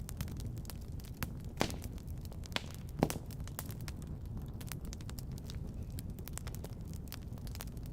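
Fireplace fire crackling, with many small snaps and two louder pops, the louder one about three seconds in, over a steady low rumble.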